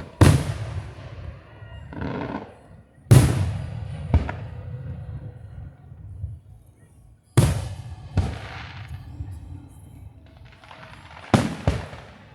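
Aerial fireworks shells bursting overhead: four loud bangs a few seconds apart. Each bang is followed about a second later by a second crack, and each leaves a long rolling echo.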